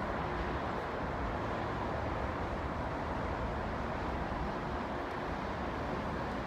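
Steady rumble of a jet airliner's engines on approach, holding level without rising or falling.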